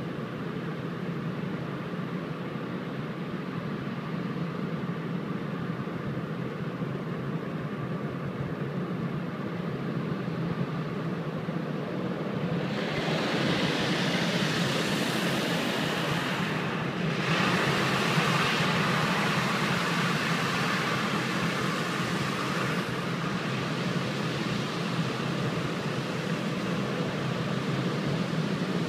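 Car wash equipment running with a steady low rumble; about halfway through, a loud hiss of spray joins in for around ten seconds, breaking off briefly once, then fades.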